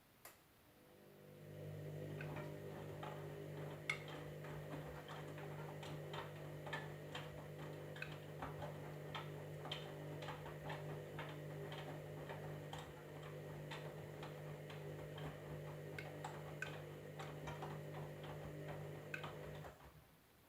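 Candy washing machine's drum turning during the wash: a relay click, then a steady motor hum with many irregular clicks and taps from the load. The motor stops abruptly near the end.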